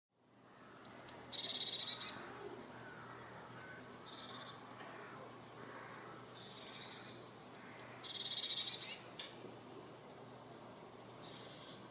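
A songbird singing a repeated phrase about five times: three or four quick high chirps followed by a lower buzzy trill, over a faint steady outdoor hiss.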